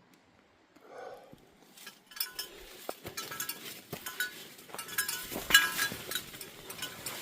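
Footsteps crunching on a forest trail, starting about two seconds in at a walking pace, each step with a light metallic clink, as of gear jingling.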